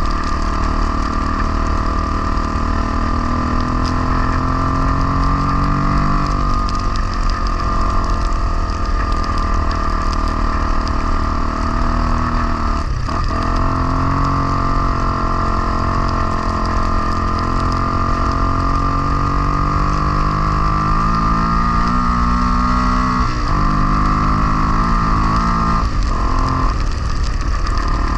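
Honda XR250R's single-cylinder four-stroke engine running under way, its pitch rising and falling as the rider accelerates and changes gear. The engine note drops and breaks sharply about halfway through and twice near the end, at gear changes or throttle-offs.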